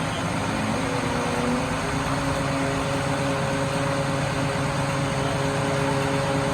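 Scania truck engine running steadily with a held hum whose pitch rises slightly about two seconds in, as when the engine picks up revs.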